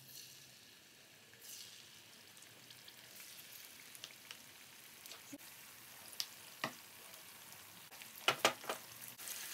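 Batter-coated chicken pieces sizzling and crackling as they fry in hot oil, the sizzle growing slightly as more pieces go in. A slotted spatula knocks against the pan several times near the end, the loudest sounds here.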